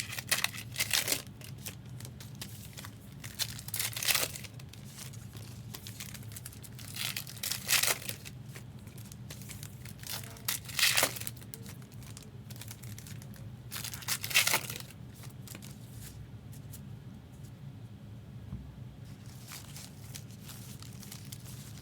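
Trading-card pack wrappers being torn open and crinkled, in short crackling bursts every few seconds, with only faint handling in the last several seconds. A low steady hum runs underneath.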